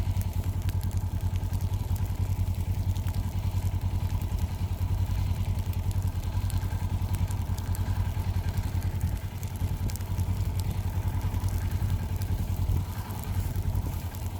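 A small utility vehicle's engine running steadily, with a low, rapidly pulsing drone.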